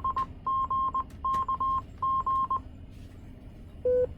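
Repeater controller sending its Morse code identification: a steady tone near 1 kHz keyed on and off in dots and dashes, stopping about two and a half seconds in. A short, lower beep follows near the end.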